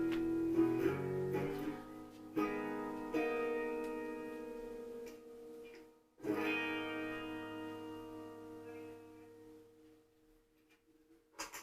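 Harley Benton HB ES-1335 semi-hollow electric guitar played: several picked notes and chords in the first few seconds, then a chord struck about six seconds in that rings out and fades almost to silence.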